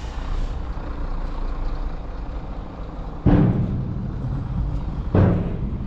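A vehicle engine running steadily, with two sudden loud thumps about three seconds in and again about five seconds in.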